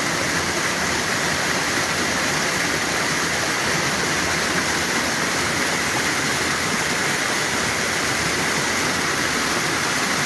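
Floodwater rushing steadily down a swollen creek in a flash flood.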